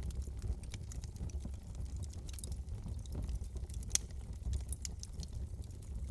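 Wood fire burning in a fireplace: a steady low rumble of flames with scattered crackles and pops, one sharper pop about four seconds in.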